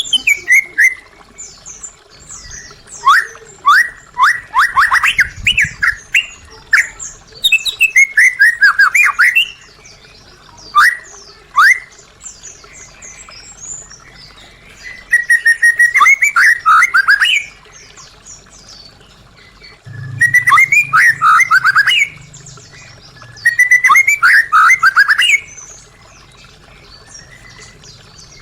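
White-rumped shama (murai batu) singing: loud phrases of quick, downward-sweeping whistled notes, each phrase lasting a second or two, repeated about five times with short pauses between.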